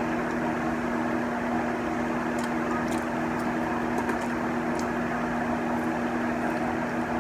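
Steady mechanical hum of a running appliance or motor, holding two constant tones, with a few faint clicks.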